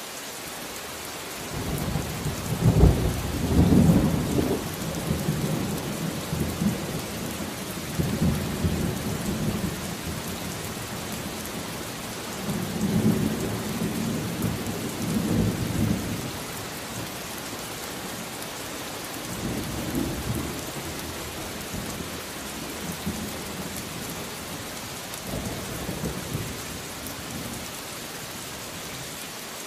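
Steady rain falling, with rolling thunder that breaks in about two seconds in, is loudest in the first few seconds, then rumbles on in several fainter waves.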